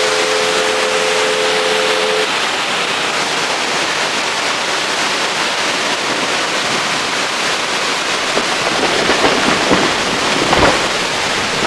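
Severe thunderstorm wind with heavy rain, a loud steady rushing that grows gustier near the end, with a thump about ten and a half seconds in.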